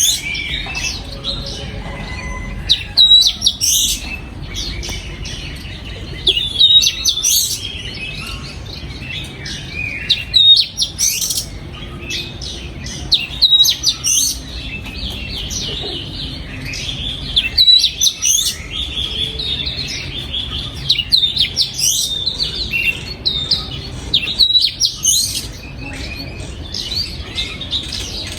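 Oriental magpie-robin singing: a run of varied whistled notes and chirps, with louder phrases breaking out every few seconds.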